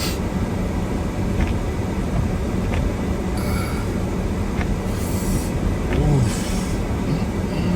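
Steady low rumble of a four-wheel-drive vehicle driving through snow, heard inside the cabin, with a few brief hissing swishes.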